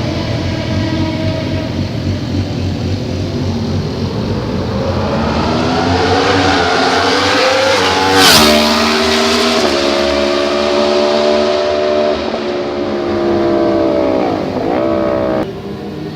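Superbike engine revving up, its pitch rising over several seconds to a sharp crack, then holding high and steady. There is a quick dip and rise in revs near the end before the sound drops away suddenly.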